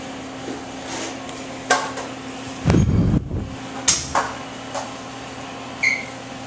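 A steady low hum with a few sharp knocks and one heavy thump about three seconds in, and a brief high beep near the end.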